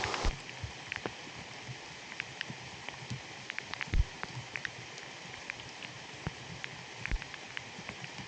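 Rainforest rain: a heavy downpour hiss cuts off suddenly just after the start, leaving a softer hiss with scattered drops tapping and plopping. A few heavier drops land with dull thuds, the loudest about four seconds in.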